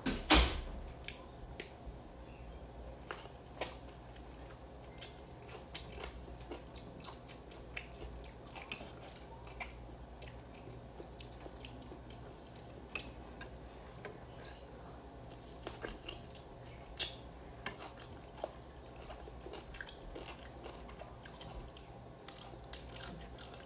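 Crunchy bites and chewing of raw green mango slices: scattered short, sharp crunches throughout, the loudest one just after the start, over a low steady hum.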